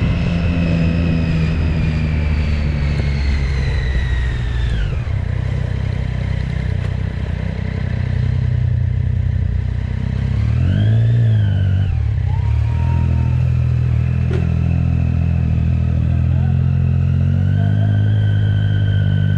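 Motorcycle engine running under way: the pitch drops over the first few seconds as it slows, rises and falls again about halfway through, then settles and climbs slightly near the end.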